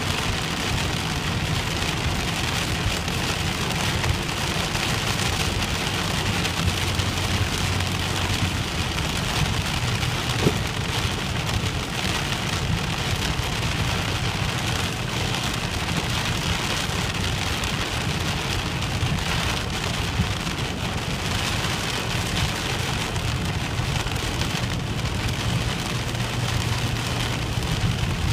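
Heavy rain drumming steadily on a moving car's roof and windscreen, heard from inside the cabin, over the low drone of the car on the road.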